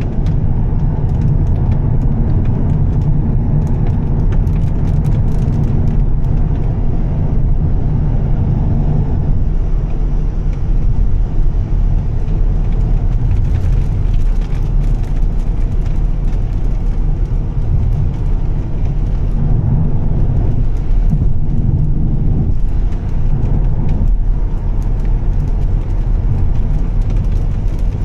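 Volvo S60 T6's turbocharged straight-six with a Heico aftermarket exhaust, cruising on a wet road. It makes a steady low drone mixed with road and tyre noise, with no marked revving.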